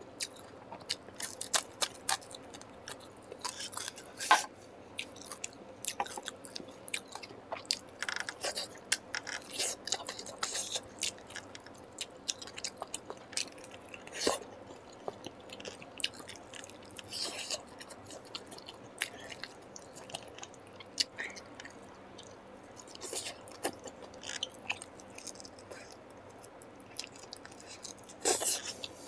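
Close-miked chewing of a curry meal: wet mouth smacks and clicks, quick and irregular, with a few louder bites.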